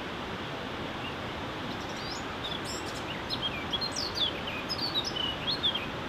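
Steady rushing of a waterfall. From about two seconds in, a small bird sings over it in a series of short, quick whistled chirps that glide up and down.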